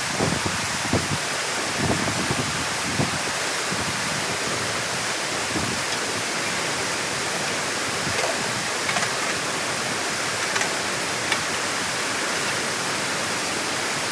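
Water rushing steadily through a dam opening, with a few short thumps in the first three seconds.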